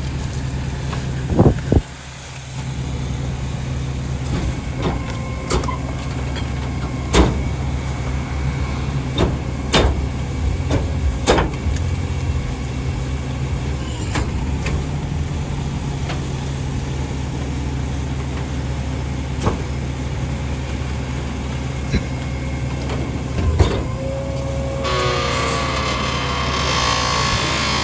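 A rear-loader garbage truck's diesel engine running steadily, with scattered sharp knocks and bangs from trash and bins being handled; near the end a loud hiss comes in and continues.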